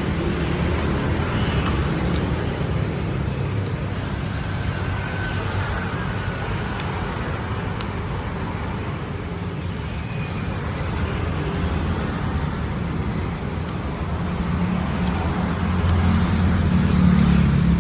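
Steady low rumble of background noise, swelling slightly near the end, with a few faint ticks over it.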